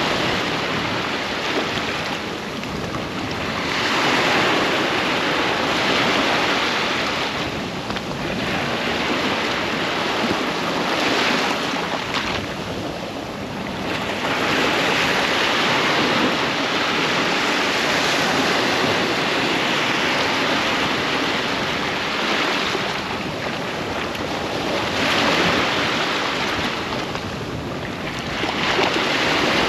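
Ocean waves breaking and washing up a sandy beach, a continuous surf wash that swells and ebbs every few seconds, with some wind on the microphone.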